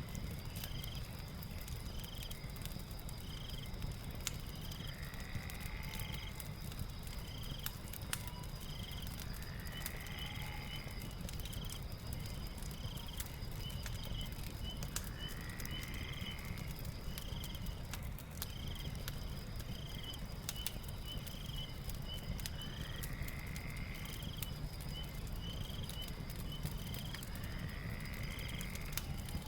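Night ambience with a crackling fire. A steady high insect trill and a short chirp repeating about once a second run throughout, a rising call comes every five or six seconds, and the fire's crackle and low rumble lie beneath.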